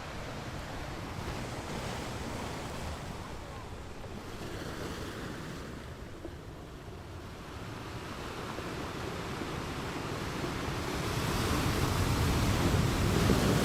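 Ocean surf: waves washing in as a steady rush, swelling louder over the last few seconds as a wave builds and breaks.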